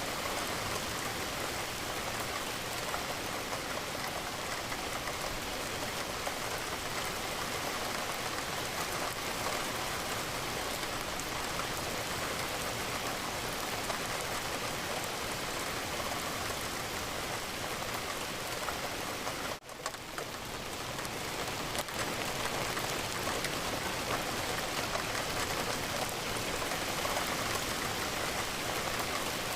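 Steady rain falling against a window, an even dense hiss. About twenty seconds in, the sound drops away for an instant and then swells back over a couple of seconds.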